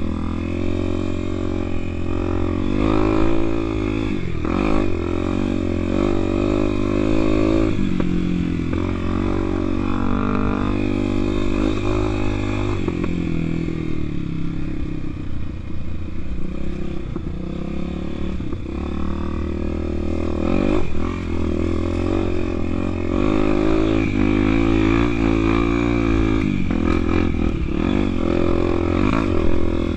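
Honda XR250 Tornado's single-cylinder four-stroke engine running under load on an enduro ride. The engine pitch rises and falls again and again as the throttle is worked.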